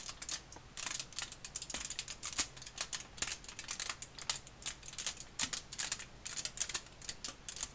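Aluminium foil crackling in the hands: a rapid, irregular pitter-patter of small pops. The foil is being stretched taut, which makes the popping sound.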